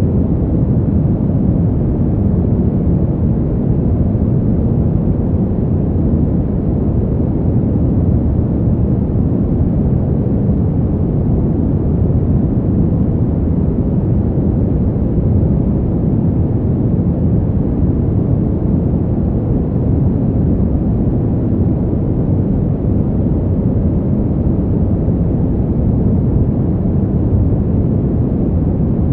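Steady, low wind noise for sleep, even throughout with no gusts, no lulls and no other sounds.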